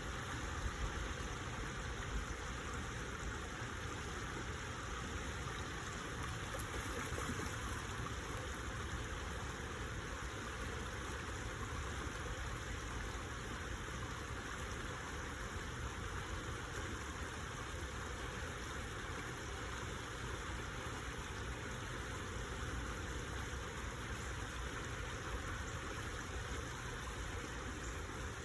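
Stream water flowing steadily, with a constant low rumble underneath.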